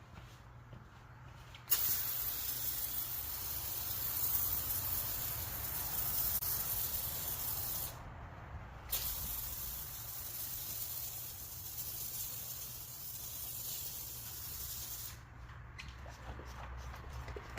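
Pressurized hand-pump foam sprayer hissing as it sprays rinseless wash solution onto the truck's paint, in two long sprays of about six seconds each with a brief pause between them. A few faint clicks follow near the end.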